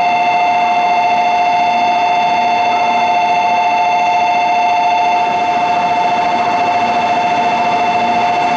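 Electronic platform departure bell ringing continuously as a steady, slightly warbling two-note tone, signalling that the Shinkansen is about to depart.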